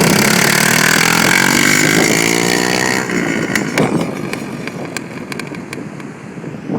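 Motorcycle engine held at high revs during a burnout, its pitch climbing, with a loud hiss over it, for about three seconds. Then the revs drop off abruptly, leaving a lower, rougher running sound with scattered sharp clicks.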